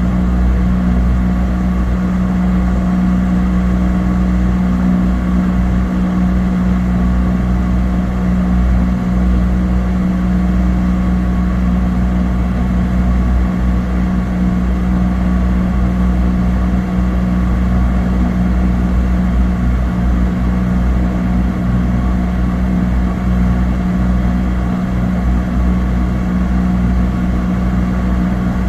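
Cessna 208 Caravan's PT6A turboprop engine and propeller running steadily, heard inside the cabin as a loud, even drone with a strong low hum held at one pitch.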